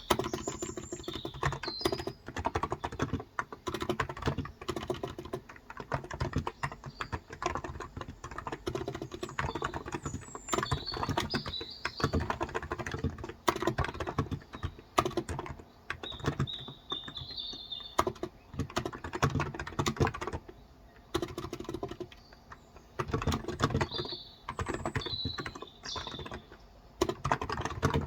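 Typing on a Cox Endeavor electrostatic capacitive keyboard with 35 g switches: runs of quick key clicks with short pauses. Birds chirp in the background several times.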